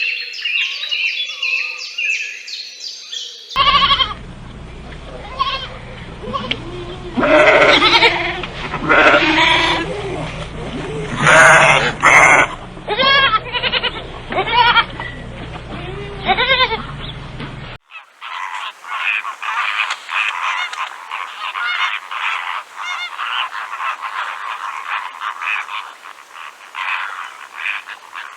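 A sequence of different wild animal calls, cut abruptly from one to the next: short high calls for the first few seconds, then a run of pitched calls that rise and fall over a steady low background until about two-thirds of the way through, then a dense pulsing chorus of calls.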